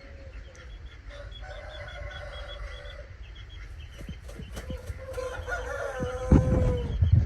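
Game rooster crowing twice, long drawn-out crows, the second louder and ending on a held note; low thumps near the end.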